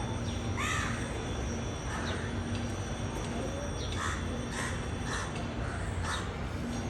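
Birds calling: a series of short, arched calls, a few at first and coming faster from about four seconds in, over a steady low background hum.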